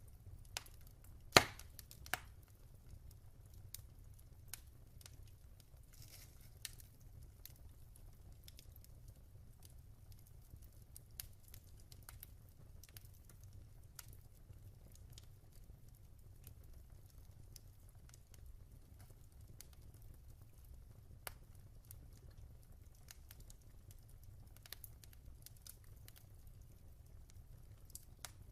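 Wood fire burning softly, with scattered sharp crackles and pops over a faint low rumble of the flames; the loudest pop comes about a second and a half in, another just after.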